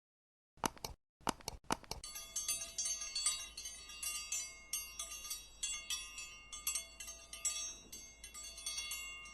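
Bright, high chime-like bell tones: a few single strikes, then from about two seconds in a quick tinkling run of many overlapping notes. The run comes straight after a moment of dead silence, as in a music outro added in editing.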